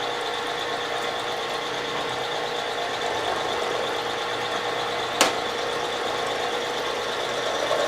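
Milling machine running steadily with a fixed whine while the table power-feeds the ball end mill toward the workpiece, with one sharp click about five seconds in. Near the end the sound swells sharply as the end mill starts cutting.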